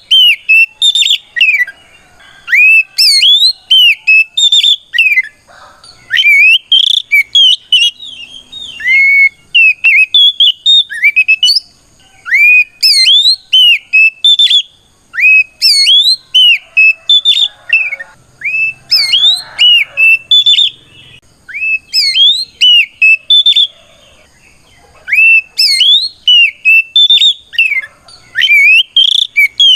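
Oriental magpie-robin (kacer) singing loud, clear whistled phrases of quick notes sweeping up and down in pitch, in runs broken by short pauses. This is its full challenge song, calling out a rival.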